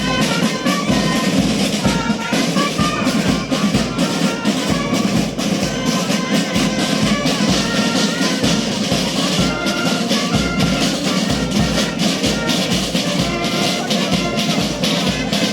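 Police brass band playing a tune, brass melody over a steady drum beat.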